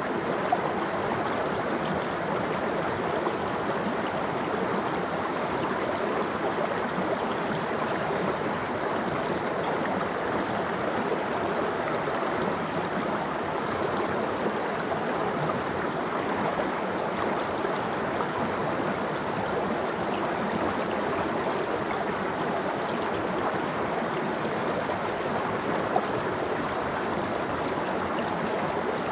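Cold valley stream flowing steadily, an even rushing of water that fades in at the very start.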